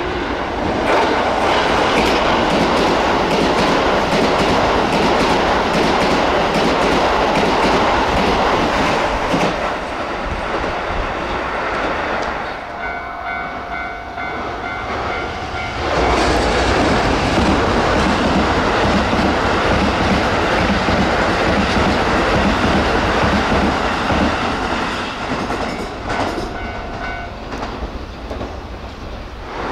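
Two electric commuter trains pass at speed one after the other, a Keisei 3000 series and then a Toei 5500 series, each at about 75–80 km/h, with wheels clattering over the rail joints. In the lull between them, about 13 seconds in, and again near the end, a repeating electronic warning tone sounds.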